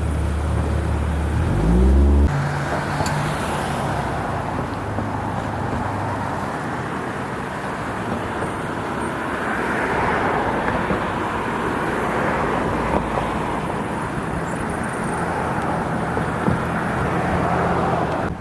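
A motor vehicle's engine running low, then rising in pitch for about a second and cutting off about two seconds in. A steady rushing noise follows and holds without a break.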